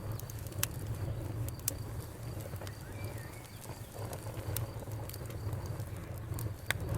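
Campfire crackling: burning wood giving scattered sharp pops and snaps over a steady low rumble.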